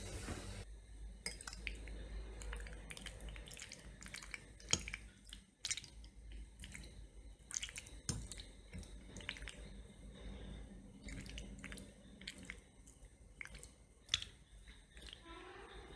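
A person chewing macaroni and cheese and toast close to the microphone: wet, squishy mouth sounds with many irregular sharp clicks.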